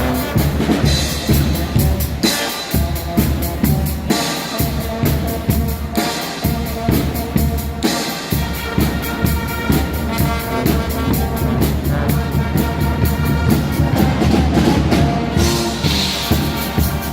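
Guggenmusik carnival band playing loudly: brass over a driving drum beat of bass drum and snare, with cymbal crashes every couple of seconds.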